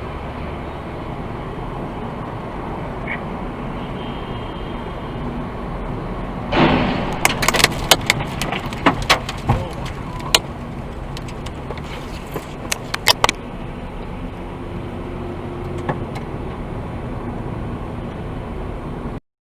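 Steady low road rumble of a car driving. About six and a half seconds in there is a sudden louder noise, followed by an irregular run of sharp clicks and knocks over several seconds. The sound cuts off abruptly near the end.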